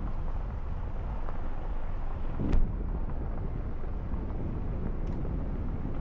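Steady low road and engine rumble of a moving car heard from inside, with one sharp knock about two and a half seconds in.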